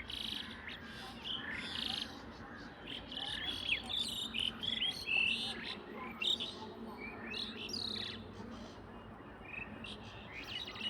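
Several wild birds chirping and calling, with many short, varied notes overlapping from different directions.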